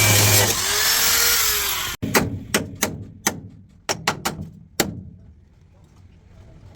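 A power tool runs loudly for about the first two seconds. Then, after a sudden cut, come about eight separate hammer blows on sheet metal, irregularly spaced, each ringing briefly, as in panel-beating on car body panels.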